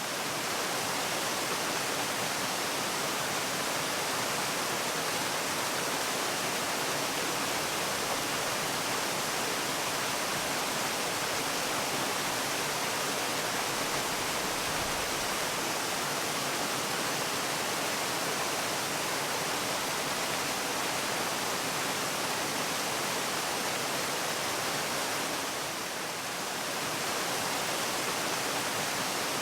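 Waterfall: a steady rush of falling water, with a brief slight dip in level near the end.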